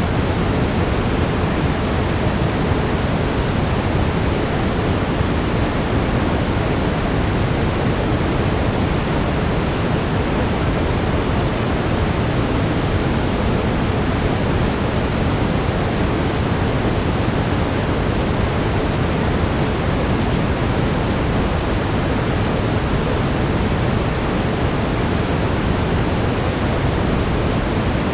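Steady brown noise: an even, unbroken hiss weighted toward the low end, with no change throughout.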